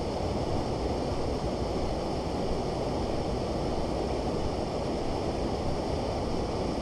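Steady rushing of flowing creek water, an even noise with no single sounds standing out.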